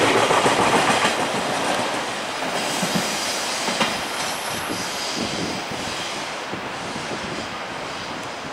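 Container wagons of a JR Freight train rolling past, wheels clattering over the rail joints. It is loud at first and fades steadily as the train draws away.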